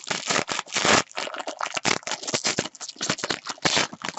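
Trading-card pack wrapper crinkling and crackling in rapid, irregular bursts as a pack is handled and opened, with the loudest crinkles about half a second and a second in.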